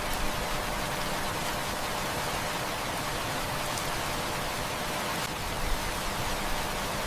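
Heavy rain falling steadily, an even hiss with an occasional faint click.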